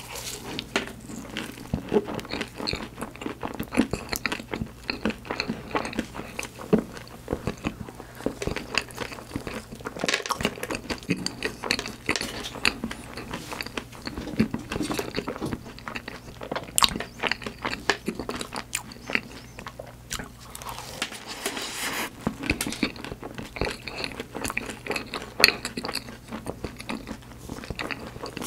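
Close-miked biting and chewing of choux-pastry profiteroles topped with white chocolate, chocolate chips and sliced almonds: a bite near the start, then steady crunching and wet chewing with many irregular small clicks.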